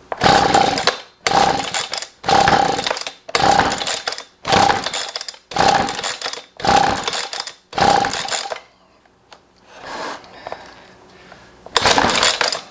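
Husqvarna 125B leaf blower's small two-stroke engine being pull-started by its recoil rope: eight quick pulls about a second apart, then two more after a short pause, cranking without running on. The blower is in a no-start condition after its carburettor's low- and high-speed screws were reset.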